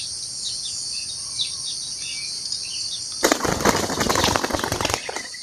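A bird's wings flapping hard in a rapid flurry for about two seconds, starting just past halfway. Under it is a steady high drone of crickets and insects.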